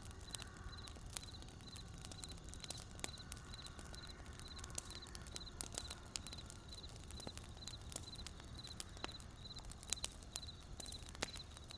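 A wood campfire crackling, with irregular sharp pops and snaps from the burning wood over a low, steady rumble of the flames. Behind it a short, high chirp repeats about twice a second.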